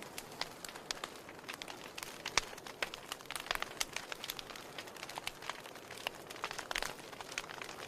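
Wood campfire crackling: irregular sharp pops and snaps over a soft steady hiss of the flames, with one louder pop about two and a half seconds in.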